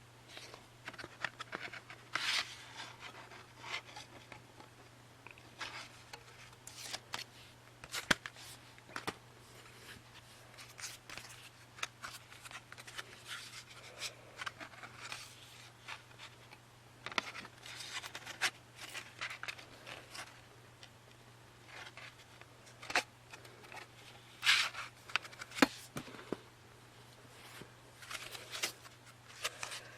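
CD sleeves and box-set packaging being handled: scattered rubbing, scraping and sliding noises with sharp little clicks, over a faint steady low hum.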